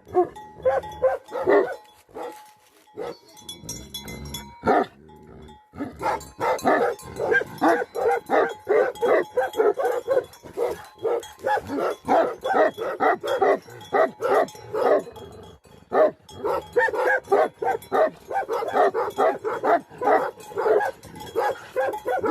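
Tibetan mastiff guardian dogs barking in quick, repeated barks, several a second. There is a break of about four seconds near the start, then the barking runs on steadily.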